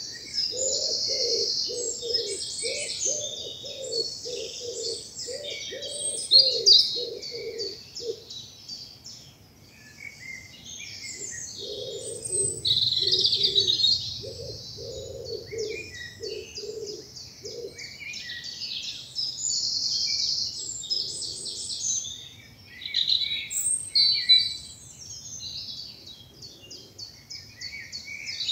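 Spring woodland dawn chorus: several songbirds singing and chirping at once, with a low hooting note repeated about twice a second in two long runs underneath, during the first third and again in the middle.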